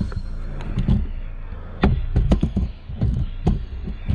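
Sharp clicks and knocks of plastic door trim being prised up, over the steady low hum of the car's engine idling.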